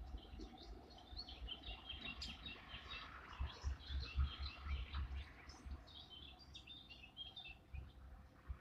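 Small birds chirping and singing, many short high calls in quick succession, over a low rumble that comes and goes.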